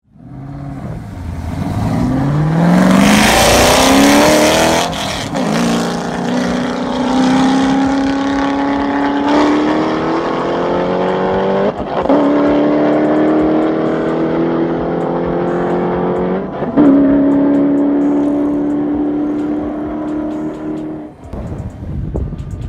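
A Cadillac CTS-V and a Ford GT, both V8s, launching side by side at full throttle, the engine note climbing in pitch and dropping back at each of about four upshifts as they pull away. Near the end the run gives way to a low engine rumble.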